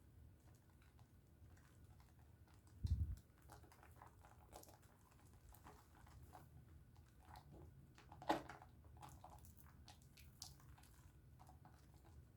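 Soft, faint squishing and crackling of a pink Dove soap bar being lathered in wet hands. There is a dull low thump about three seconds in and a sharp click a little after eight seconds.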